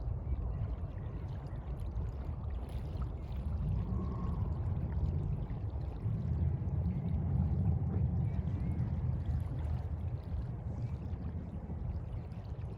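Sea water washing and sloshing in a steady, low, rumbling wash.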